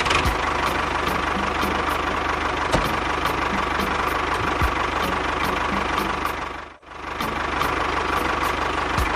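Small engine running steadily with a regular light ticking. The sound cuts out briefly about two-thirds of the way in, then resumes.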